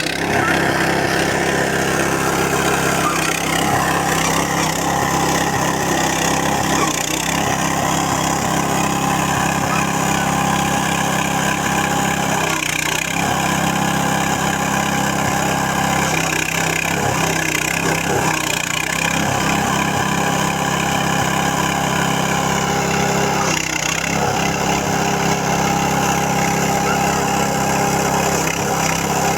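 Cassava grinding machine running steadily with a strong, even hum, its note dipping briefly a few times as it takes load.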